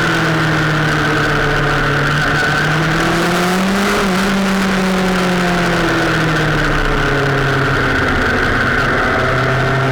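A vehicle engine running at a steady cruise, its pitch rising a little about halfway through and easing back down, with steady wind or road noise over it.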